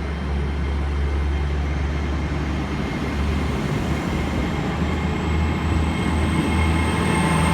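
GWR Class 802 bi-mode IET train departing, its underfloor diesel engines and wheels giving a steady low rumble that slowly grows louder. A thin high whine comes in about halfway through and strengthens toward the end.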